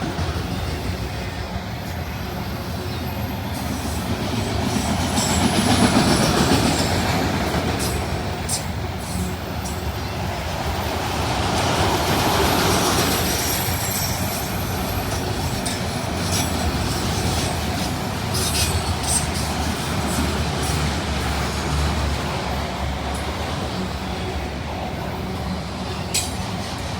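CSX freight train rolling past: a steady rumble of wheels on rail that swells twice, with scattered sharp clicks and squeaks from the cars.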